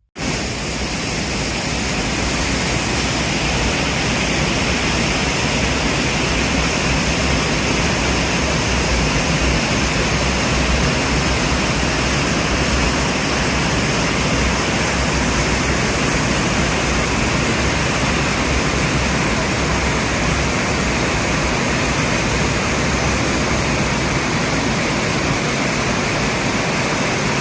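Steady, loud rushing noise with a fluctuating low rumble, starting suddenly.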